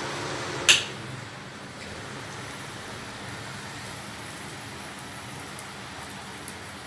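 Steady frying hiss of a ghee-brushed paratha crisping on an iron tawa over a gas flame. A sharp click sounds a little under a second in, after which the hiss is slightly quieter.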